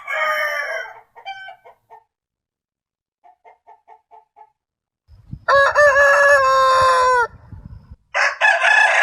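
Rooster crowing and clucking: the end of one crow, a few short clucks and a quick run of about six more, then a long crow, with another crow starting near the end.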